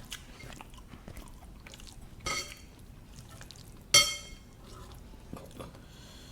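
Eating sounds at a meal: cutlery clinking against tableware, with a short ringing clink about two seconds in and a sharper, louder one about four seconds in, and faint chewing and small clicks in between.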